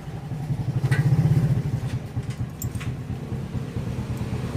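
Motorcycle engine running, a fast even low pulsing that swells about a second in and then settles back to a steady idle-like beat.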